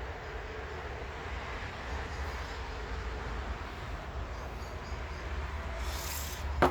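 Steady low hum under an even background noise, with a short hiss about six seconds in and a sharp knock just before the end.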